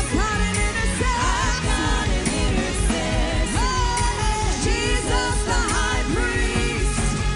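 Live worship band music with a steady drum beat, and a sung or played melody that glides and wavers in pitch.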